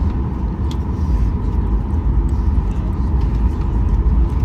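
Cabin noise of a Boeing 737-800 on the ground after landing: a steady low rumble with a thin steady whine running through it.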